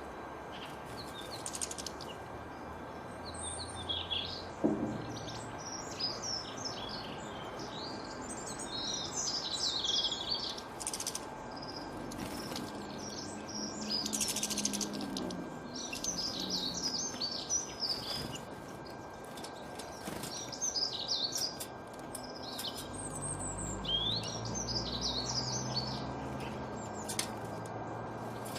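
Small songbirds chirping and twittering in quick, high phrases over steady background hiss, with a faint low hum for a few seconds past the two-thirds mark.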